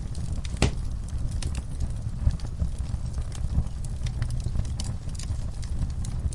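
Wood fire in a fireplace crackling: irregular sharp pops and snaps over a steady low rumble, with one louder pop about half a second in.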